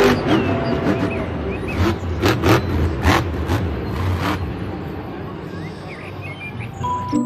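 Monster truck engine running hard under load with a low rumble and crowd noise in an indoor stadium, with several sharp cracks between about two and four and a half seconds in.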